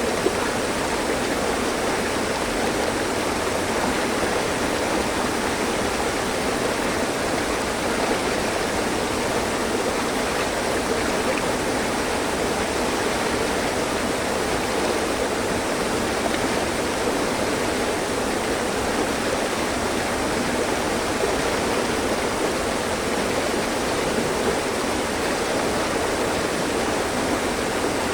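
Mountain stream running steadily over rocks: an even, unbroken rush of flowing water.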